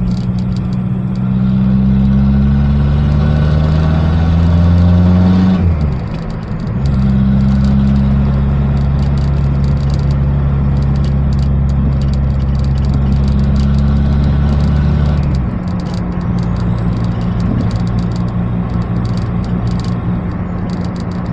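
Citroën ZX Turbo D's turbodiesel engine, exhaust straight-piped, revved from idle. It climbs steadily for a few seconds and drops off sharply. It is then held at a steady higher speed for about eight seconds before falling back to idle.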